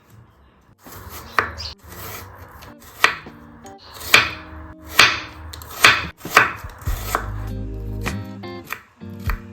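Kitchen knife chopping on a cutting board: sharp cuts about once a second starting about a second in, with lighter taps near the end.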